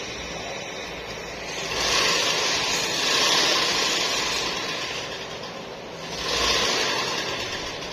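Pressurised gas hissing in two surges, the first swelling about two seconds in and fading by about six seconds, the second starting about six seconds in.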